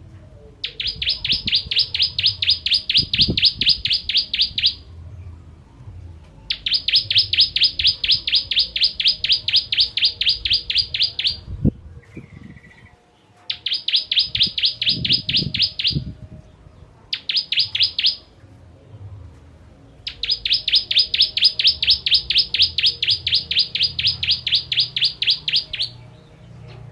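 Ciblek kristal (bar-winged prinia) singing its rapid-fire 'tembakan' song: fast, even strings of sharp high notes, several a second, in five bursts of about one to six seconds, with short pauses between.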